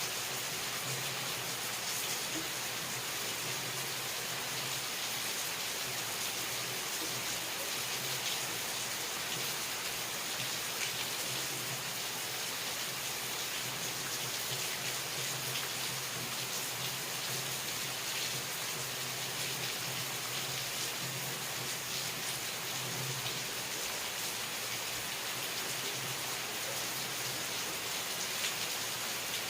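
Steady rain falling, an even hiss with faint scattered drop ticks and no let-up.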